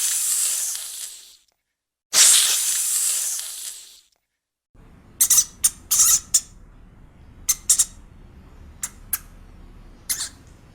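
An animal hissing twice, each hiss about a second and a half long with a short gap between. Then come a series of short, sharp high squeaks or chirps from a small animal or bird, irregularly spaced.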